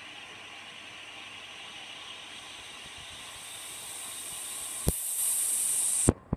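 Hoover Logic washing machine's water inlet valve hissing as water fills the drum. The hiss grows louder and sharper, then cuts off abruptly with a click near the end as the valve shuts.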